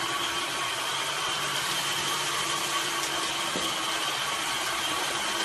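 A steady machine whir: an even hiss with a few steady humming tones, unchanging throughout.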